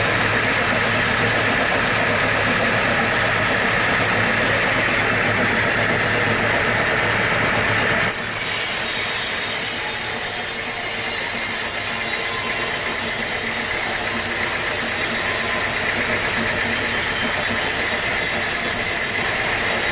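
Sawmill machinery running with a steady motor hum. About eight seconds in, the sound changes abruptly to a steady hiss that lasts to the end.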